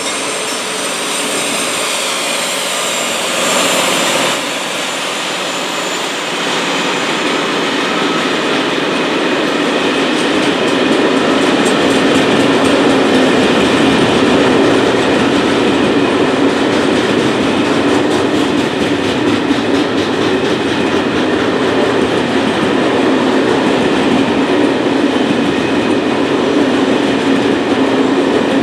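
Freight train passing close by: the diesel locomotive goes by in the first few seconds, then a long string of loaded log wagons rolls past with a steady rumble and the clatter of wheels over the rail joints, growing louder and holding.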